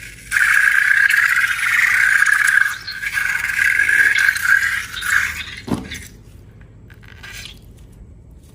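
Air escaping from a balloon, squealing in a steady buzzing tone for about five seconds. It ends with a short falling squeak, then goes quiet.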